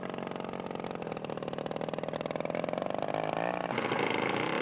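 Engine of a large radio-controlled scale model airplane running steadily, getting gradually louder, with a brief shift in pitch about three seconds in.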